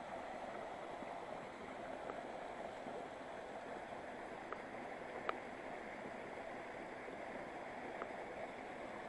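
Steady rush of a waterfall and mountain river, an even hiss of falling water, with a few small clicks, the sharpest a little past halfway.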